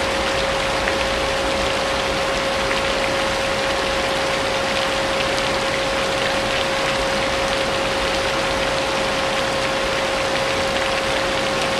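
Vacuum cleaner running steadily, its motor giving a constant whine over a hiss of rushing air, mixed with the patter of rain.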